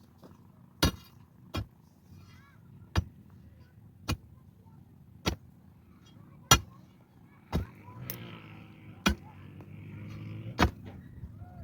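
A hand tool striking hard material with about nine sharp, separate blows, roughly one to one and a half seconds apart, with a fainter steady noise under the last few blows.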